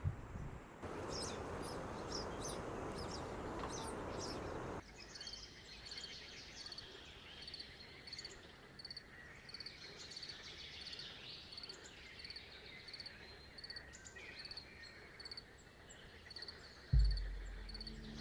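Wetland-forest ambience of birds and insects calling: short high chirps repeat about once a second over a soft background hiss. A sudden low thump comes near the end.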